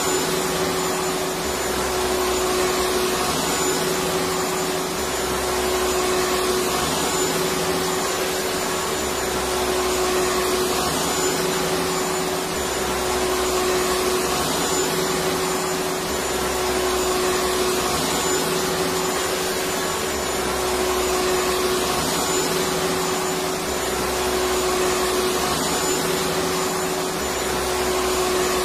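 Electric vacuum cleaner motor running steadily: a dense whooshing rush with a steady whine. The level swells slightly every three to four seconds.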